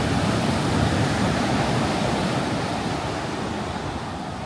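Ocean surf washing on the shore in a steady rush, with wind buffeting the microphone.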